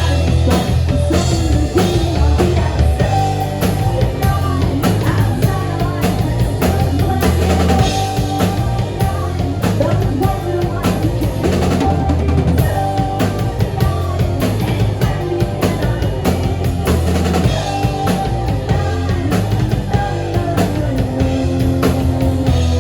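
Live band playing a song: a drum kit beating steadily over sustained bass and guitar notes, with singing.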